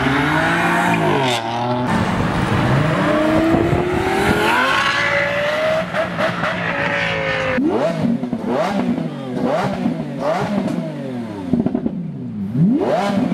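Car engine accelerating hard, its pitch climbing through the revs. About eight seconds in, a series of quick revs, the throttle blipped roughly once a second.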